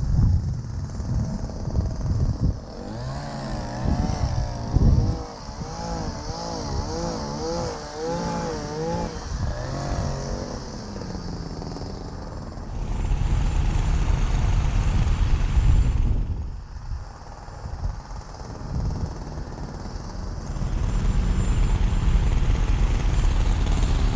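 Truck engines running during a winch recovery, growing louder for stretches of a few seconds. A wavering whine comes in a few seconds in and lasts several seconds.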